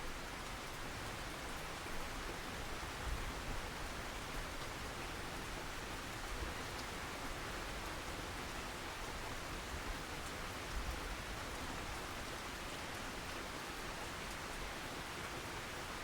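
Steady rain falling, an even hiss with occasional soft low thumps.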